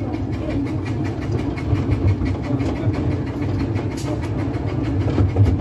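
Steam railway train heard from on board while running: a steady low rumble of wheels on track with a fast, even run of clicks, and one sharper click about four seconds in.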